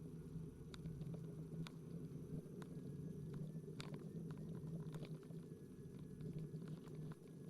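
Riding noise from a KingSong KS18S electric unicycle: a steady low rumble with scattered sharp clicks and ticks.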